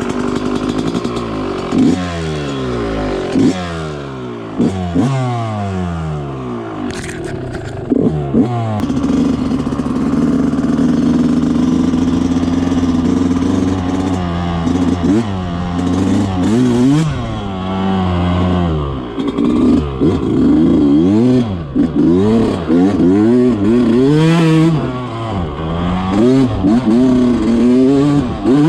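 Two-stroke Yamaha YZ125 dirt bike engine revving hard on a trail. For the first several seconds the pitch climbs and drops repeatedly with the throttle, then it holds a steady high rev for a few seconds. After that it swings quickly up and down as the rider works the throttle.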